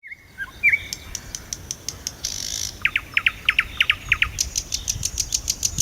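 Nightingale singing: a few short whistled notes, then a fast run of about eight repeated down-slurred notes, then a rapid, high clicking rattle near the end, over a faint low background rumble.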